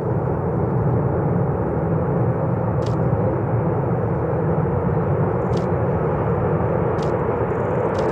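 Steady aircraft noise, an even rumble with no change in pitch, with a few faint ticks above it.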